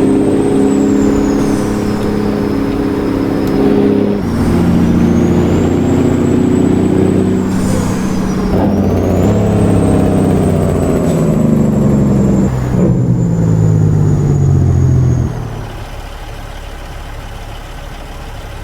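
Straight-piped Caterpillar C15 inline-six diesel in a Freightliner Classic XL semi truck pulling away under load through the gears. It runs loud with short breaks at about 4, 8½ and 13 seconds for the shifts, and a high turbo whistle climbs after each one. A little after 15 seconds the engine drops to a much quieter, steady note.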